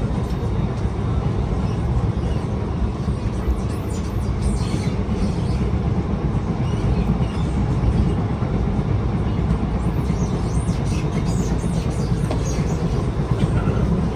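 Alstom R151 metro train running, heard from on board: a steady low rumble of wheels on rail, with faint high squeaks and ticks coming and going around the middle and again later.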